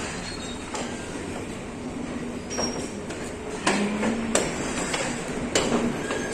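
Passenger train running along the track: a steady rumble with several irregular knocks and clacks from the wheels and carriage, the sharpest about four and five and a half seconds in.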